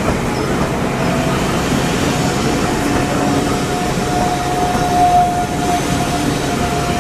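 Railway passenger coaches rolling past at close range, with a steady rumble of wheels on the rails. A thin, steady squeal joins in about a second in and is loudest around five seconds.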